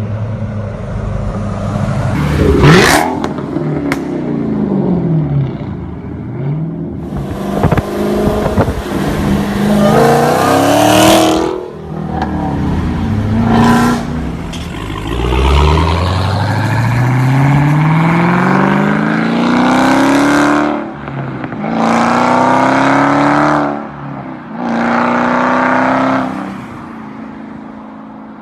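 Dodge Challenger Hellcat's supercharged 6.2-litre HEMI V8 running loud through a muffler-deleted exhaust, revving and accelerating hard several times. About halfway through there is one long pull that climbs steadily in pitch, and near the end come two shorter bursts of throttle.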